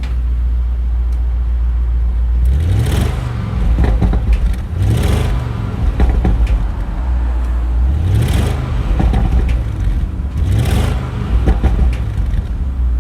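Porsche Cayenne Turbo S E-Hybrid's twin-turbo V8 under hard acceleration over a steady low drone. Its note rises four times as it pulls through the gears, and each rise breaks off at an upshift.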